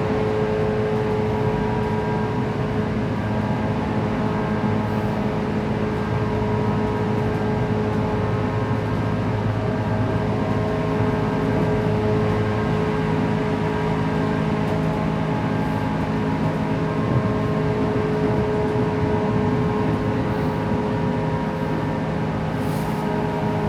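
JR West 117 series electric train running at steady speed, heard inside the passenger car: a steady rumble of wheels on rail with a constant motor hum. Some of the lower tones shift slightly about halfway through.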